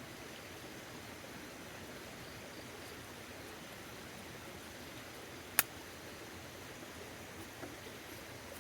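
Steady rain falling, an even hiss with no let-up, broken once about halfway through by a single sharp click, with two faint ticks near the end.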